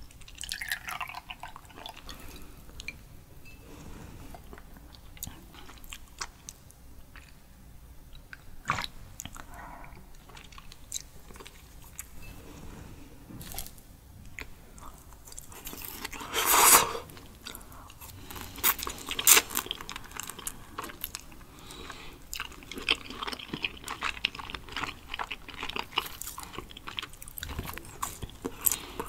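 Close-miked eating of raw sweet shrimp still slightly frozen: wet chewing, crunching and smacking in many short clicks. There is one louder, longer burst a little over halfway through. At the start, soju pours into a small glass.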